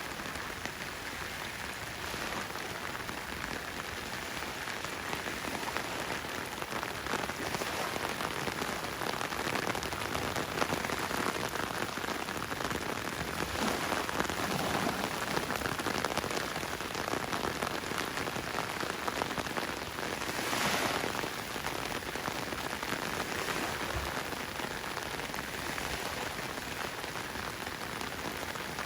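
Summer rainstorm: steady rain falling on surfaces, a continuous hiss, with a brief swell about twenty seconds in.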